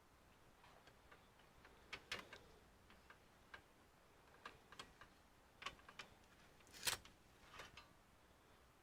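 Faint, scattered light clicks and taps of hands and tools on the computer's parts during disassembly, irregular, with the loudest click about seven seconds in.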